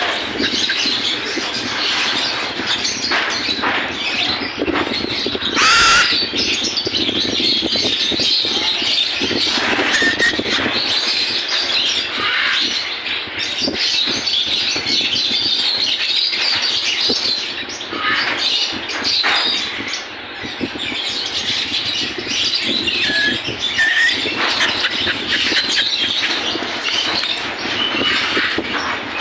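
Many caged birds chattering and squawking together in a continuous chorus, with one sharp, loud squawk about six seconds in.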